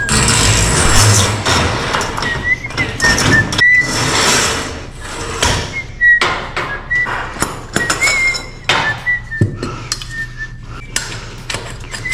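Garage door moving on its track, rattling and clattering, with repeated short high squeaks throughout.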